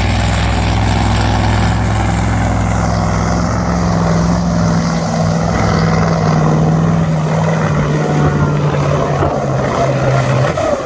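Big pulling-competition engine running hard at steady high revs, its tone dropping away about ten seconds in.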